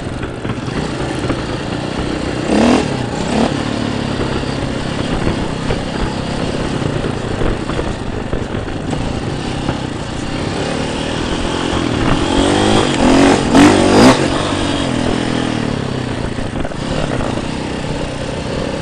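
Dirt bike engine running steadily, revving up in surges about three seconds in and again, loudest, around twelve to fourteen seconds in.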